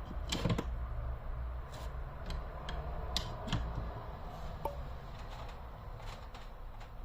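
Scattered light clicks and taps at irregular intervals, the loudest about half a second in, over a steady low hum.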